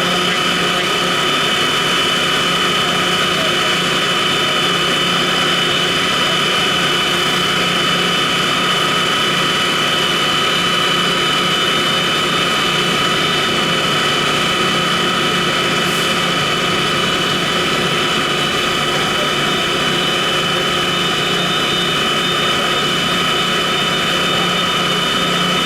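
A large engine running steadily at high speed, with a constant whine held over its noise.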